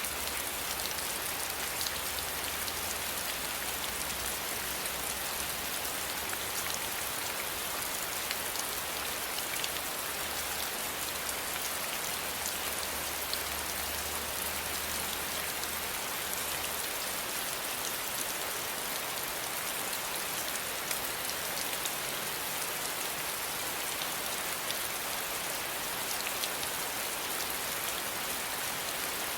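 Steady rain falling on a surface, an even hiss with many fine drop ticks through it.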